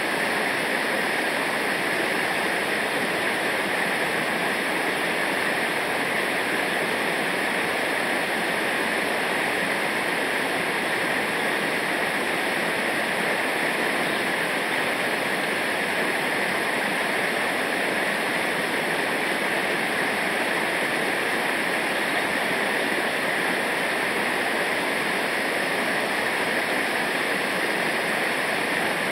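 Steady rushing of river water over rapids, an even, unbroken roar with no changes.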